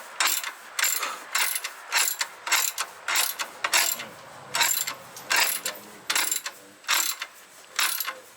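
Ratchet wrench being swung back and forth on a fastener, its pawl clicking in short bursts about three times a second.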